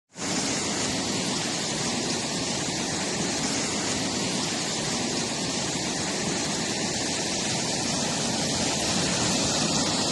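Floodwater rushing in a steady, unbroken torrent, cutting in abruptly.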